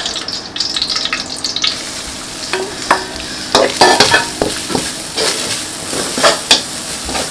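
Shredded coconut frying in ghee in a large wok with a steady sizzle that brightens about two seconds in. A wooden spoon stirs it, scraping sharply against the pan several times.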